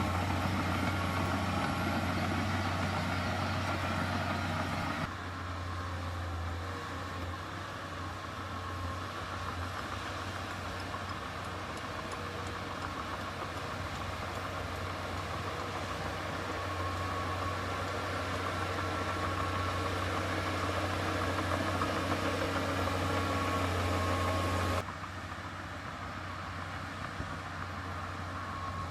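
Diesel engine of heavy earthmoving machinery running steadily under a low hum, with the overall sound dropping abruptly about five seconds in and again near the end.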